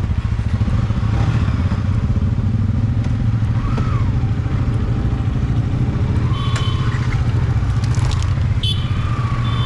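Motorcycle engine running steadily while riding, a low pulsing rumble, with a few short high-pitched tones over it in the second half.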